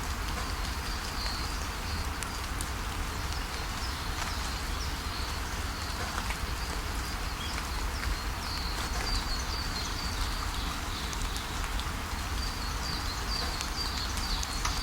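Steady rain falling, with small drops ticking, over a low steady rumble. Birds chirp in short high runs now and then, about a second in and again in the second half.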